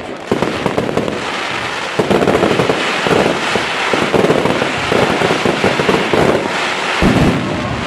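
Fireworks display: a dense, continuous crackle of many small bangs that grows busier about two seconds in, with one deep boom near the end.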